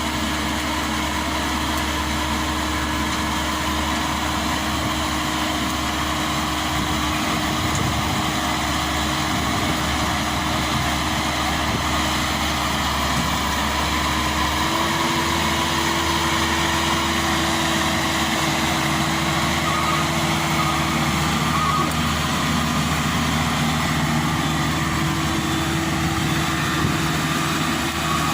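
Diesel engine running steadily under load; its pitch steps up slightly about halfway through and then holds.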